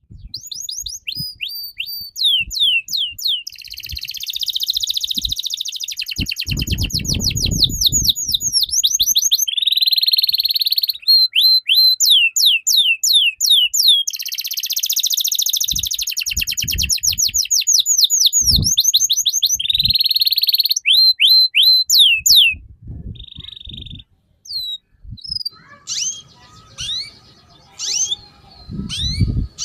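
A songbird singing a loud, fast, varied song of rapid down-slurred whistles and buzzy trills, a 'gacor' bird song of the kind played to lure other birds into singing. The run of song breaks off about 22 seconds in, leaving scattered single chirps.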